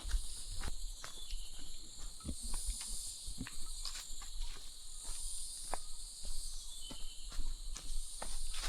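Insects chirring steadily in a high pitch, swelling and fading, with scattered footsteps and small knocks on a path.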